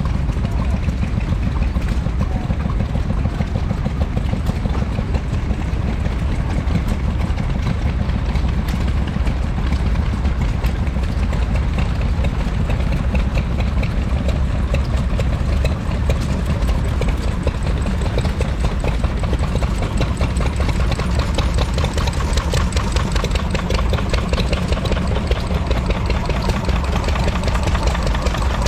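Vintage stationary engine running steadily.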